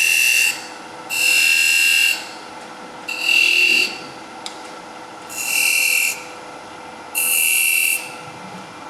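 A tool held against the wooden top spinning on the lathe to mark decorative lines, rubbing with a high squeal. It is pressed on five times, about a second each, with short gaps between.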